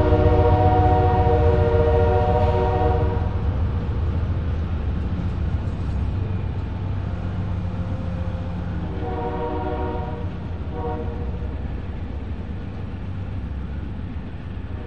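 Passenger train cars rolling past with a steady low rumble that slowly fades. A locomotive horn sounds a chord: held until about 3 seconds in, then again about 9 seconds in as a long blast followed by a short one.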